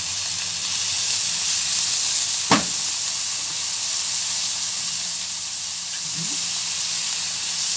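Julienned onions and garlic sizzling steadily in hot oil in a frying pan as they are stirred with a silicone spatula, with a single sharp tap about two and a half seconds in.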